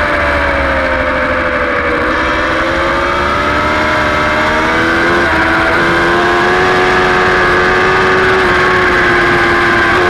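Superbike engine at high revs heard from onboard. The pitch eases off for about two seconds, then climbs again, with a brief break just after five seconds as the bike shifts gear. It keeps pulling and levels off near the end.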